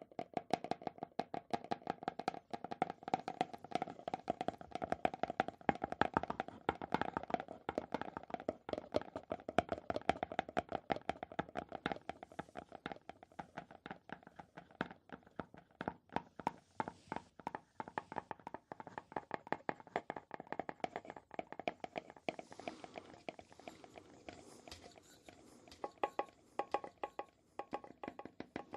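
Rapid, continuous ASMR tapping on a hard, resonant object, many taps a second, each tap ringing briefly. Near the end the taps take on a higher ring.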